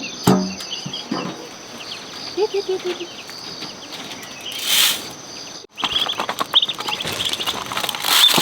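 Small birds chirping repeatedly over a steady high tone, with a couple of brief rustling bursts. The sound cuts out for an instant a little past halfway, then the chirping resumes.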